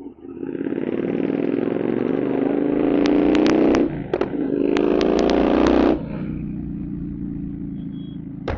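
Royal Enfield Continental GT 650 parallel-twin with a Code 6 tune, revving up with a slowly rising pitch, easing off briefly about four seconds in and revving again, with sharp exhaust pops cracking over the high revs. About six seconds in it drops back to a lower, steady running note.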